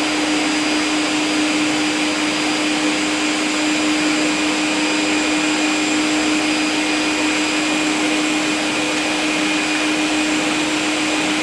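Vacuum cleaner running at a steady pitch: an even rush of air under a constant motor hum.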